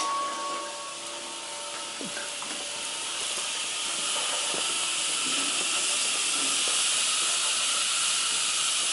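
Water spraying steadily onto plants as they are watered, a hiss that grows a little louder after the first few seconds.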